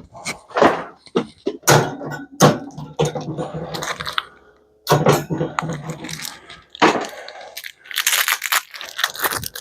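Knocks, clatters and rattles of a metal microwave oven being handled and started on for scrap, with a steady low hum for a few seconds in the middle.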